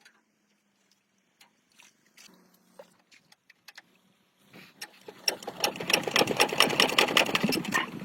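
Scattered light clicks and taps, then about halfway through a small machine starts up with a fast, even rattle that runs for about three seconds and stops near the end.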